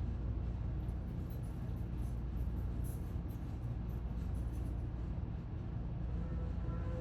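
Steady low outdoor rumble with no distinct events, with faint high ticking in the middle and a few faint steady tones coming in near the end.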